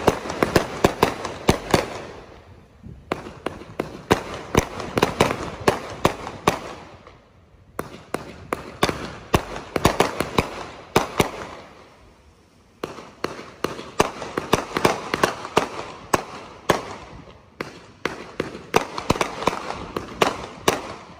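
A 500-gram 'Timeless Beauty' consumer fireworks cake firing shot after shot in rapid volleys, each launch followed by a sharp aerial bang. There are brief lulls about 2, 7 and 12 seconds in.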